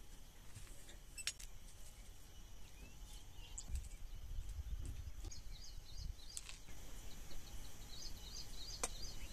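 Faint outdoor ambience: a small bird chirping in two quick runs of short high notes, with a few light clicks and a low rumble underneath.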